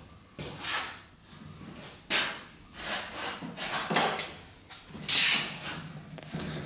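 Workshop handling noises: a string of knocks, clunks and scraping rubs, as from tools and parts being moved and worked by hand. The loudest scrape comes about five seconds in.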